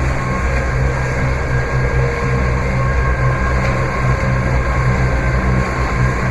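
Catamaran's inboard diesel engine running steadily under way, a constant low drone with faint steady whining tones above it.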